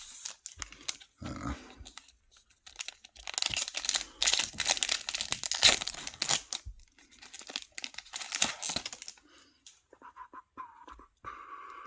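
Foil trading-card pack torn open and its wrapper crinkled, in several bursts of tearing and rustling. A faint thin whine sounds near the end.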